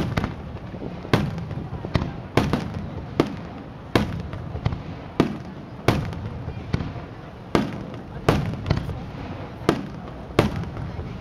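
Fireworks display: aerial shells bursting in quick succession, a sharp bang every half second to a second, each with an echoing tail.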